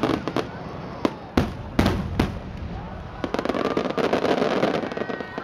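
Fireworks going off: a string of sharp bangs and pops in the first couple of seconds, followed by a longer, denser stretch of noise.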